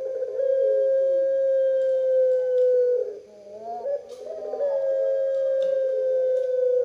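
Puter pelung, a long-voiced Barbary dove, cooing. It gives two long, drawn-out coos, each held on a slightly falling tone for two to three seconds, with a few short cooing notes between them.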